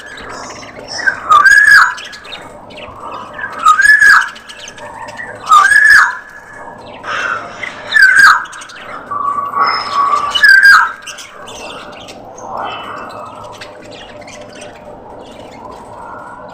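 Caged small parrots calling: one bird gives a loud squawk that rises and falls, five times at about two-second intervals, over softer chirping from other birds. The calls stop about two-thirds of the way through, leaving only faint chirping.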